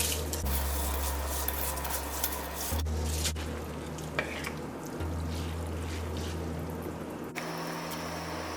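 Rice being stirred in hot oil in a wok: a spatula scraping through the grains as they sizzle.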